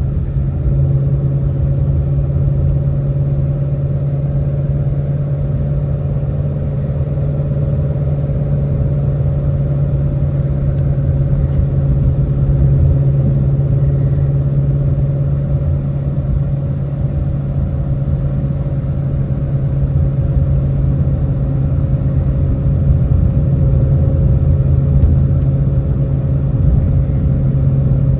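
Ford Shelby GT350's 5.2-litre flat-plane-crank V8 heard from inside the cabin, droning at a steady, unchanging engine speed over low road rumble.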